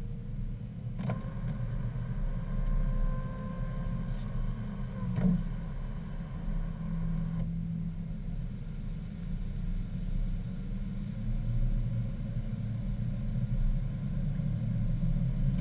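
BMW M3's V8 engine running at low speed, heard inside the cabin as a steady low drone. Two faint clicks, about a second in and around five seconds in.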